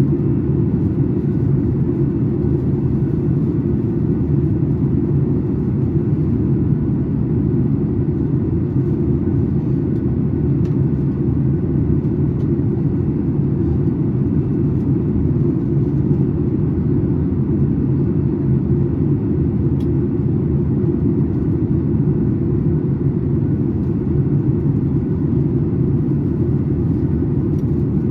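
Steady cabin noise inside a Boeing 737 MAX 8 in flight: an even, low rumble of airflow and the CFM LEAP-1B engines, heard from a window seat.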